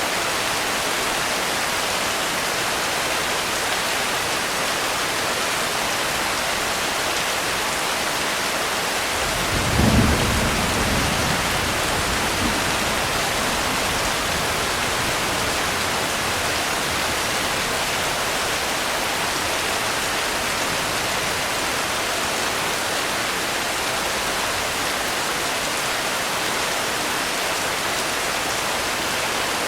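Steady rain with one roll of thunder about ten seconds in, a low rumble that swells suddenly and fades over several seconds.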